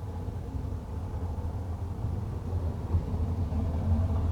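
Low, steady background rumble, with a faint knock about three seconds in.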